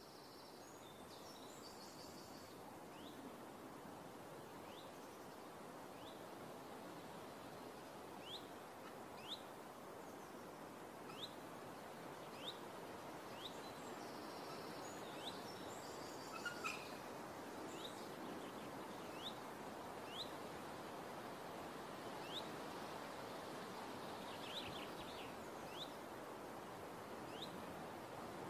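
A bird repeating a short, rising chirp about once a second over a steady outdoor background hiss, with one brief sharp tick about two-thirds of the way through.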